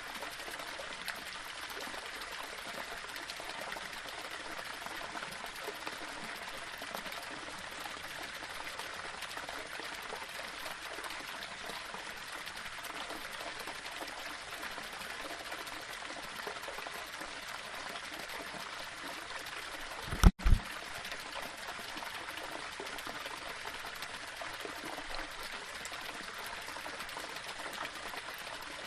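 Small waterfall running steadily over rocks: a continuous splashing rush of water. About two-thirds of the way through, a brief, loud low thump breaks in and the sound cuts out for an instant.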